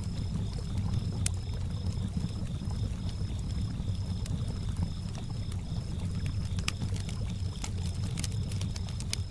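Crickets chirping in a steady, even pulse over a low wash of lapping lake water, with a crackling campfire giving sharp pops about a second in and several more near the end.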